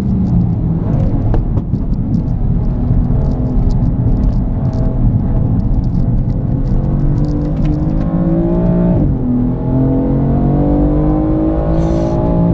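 BMW M4's twin-turbo straight-six heard from inside the cabin under hard driving. Its pitch falls over the first couple of seconds, climbs steadily as the car accelerates, drops sharply about nine seconds in at a gearshift, then climbs again.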